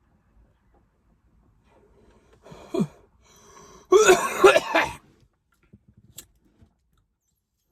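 A man clears his throat, then coughs several times in a quick fit about four seconds in, from a lungful of cannabis smoke drawn through a hand pipe.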